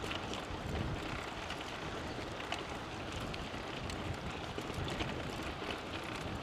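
Steady wind rushing over the microphone of a camera carried on a moving bicycle, with scattered light ticks and clicks.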